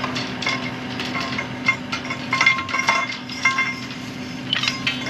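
Metal-on-metal clinks and clanks with a short ringing tone, from steel well pipe, couplings and hand tools being handled; the knocks come in clusters, busiest in the middle and again near the end, over a steady low hum.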